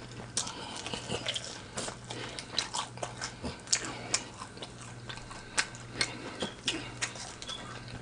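A person chewing food close to the microphone: irregular short mouth clicks and smacks, over a low steady hum.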